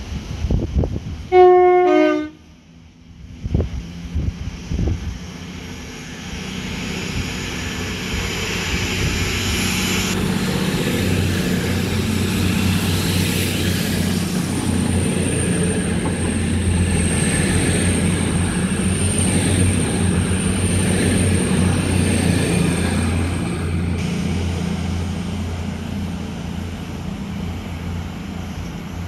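A train sounds a short two-tone horn, a higher note then a lower one, about a second in. Then a train rumbles past, building from about six seconds and loudest in the middle, with a steady low hum and a thin high whine for several seconds before it fades.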